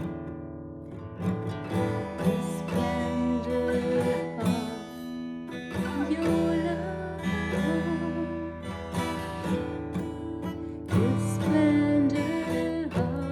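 A soft song on acoustic guitar, with a voice singing along.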